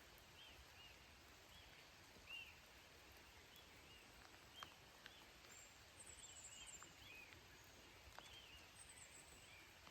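Faint, steady rain with a few sharp drips, and birds chirping over it: short repeated notes about once or twice a second, with a brief high trill twice in the second half.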